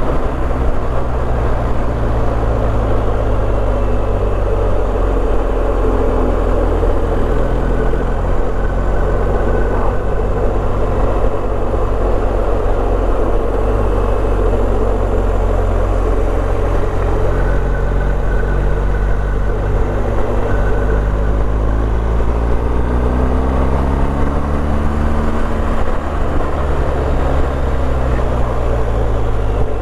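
BMW R1250GS's boxer-twin engine running while the motorcycle rides on, with a steady rush of wind and road noise. In the last third the engine note falls and then climbs again as the speed changes.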